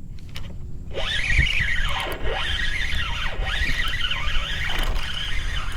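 Fishing reel squealing as a hooked fish is fought in, a high whine that rises and falls about once a second.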